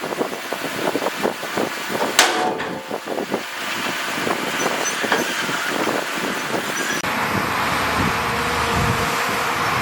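Heavy earthmoving machinery at work: rapid clattering and knocking, one sharp bang about two seconds in, then steadier engine noise with a deeper rumble near the end.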